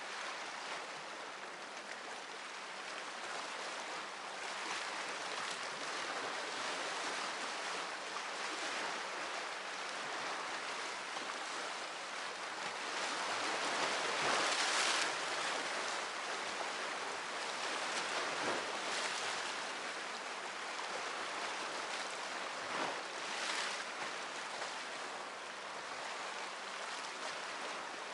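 Sea waves washing onto the shore in a steady hiss, with a louder surge about halfway through and smaller ones later.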